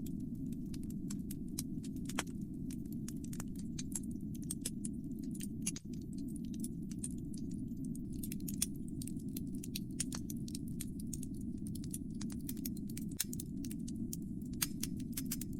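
Wood fire burning in a fireplace, crackling with frequent irregular sharp snaps and pops over a steady low rumble.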